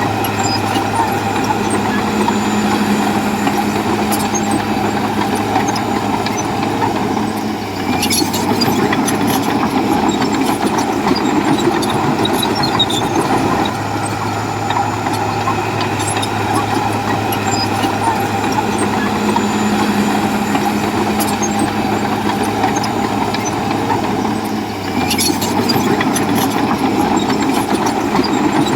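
Komatsu bulldozer's diesel engine running steadily under work, getting louder about eight seconds in, easing off a few seconds later and getting louder again near the end, with a brief clatter at each rise.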